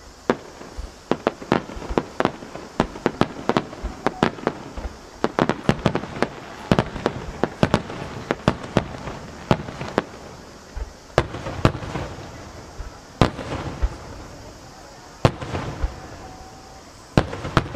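Aerial firework shells bursting in a fast, irregular run of sharp bangs, several a second. The bangs come thickest for the first ten seconds or so, then thin out to scattered louder reports.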